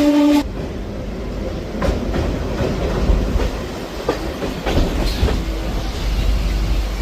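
Suburban local train running on the rails: a steady low rumble with a few clacks of the wheels over rail joints. A held steady tone cuts off about half a second in.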